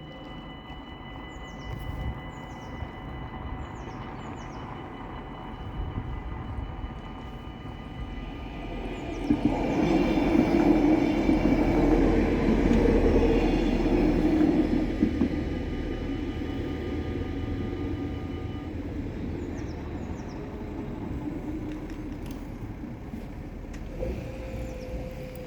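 A train passes over a railway level crossing, loudest about nine to fifteen seconds in, with rumbling wheels on the rails. The crossing's warning bell rings throughout and stops a few seconds after the train has gone by.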